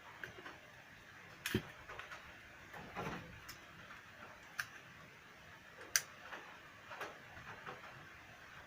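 Irregular light clicks and knocks of small hard parts being handled during a repair, about half a dozen in all, the sharpest about a second and a half in and again about six seconds in.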